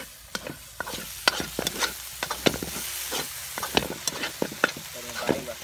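Corned beef frying and sizzling in a metal wok while being stirred, the metal spatula scraping and clicking against the pan several times a second.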